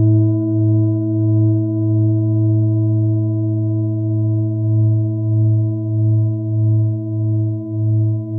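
Singing bowl sounding continuously: a low hum with several higher ringing overtones and a slow wavering pulse that quickens toward the end.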